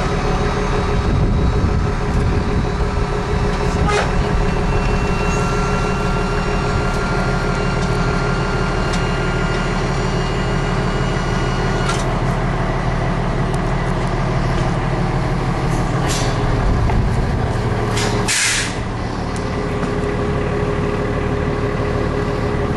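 Fire engine's diesel engine running steadily. About eighteen seconds in, a short burst of hissing air, after which the engine runs slightly quieter.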